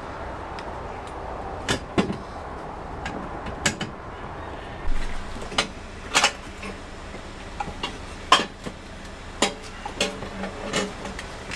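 Scattered metal clunks and knocks of an exhaust header's tubes bumping against engine-bay parts as it is forced down through a gap too tight for it. The sharpest knock comes about two-thirds of the way through.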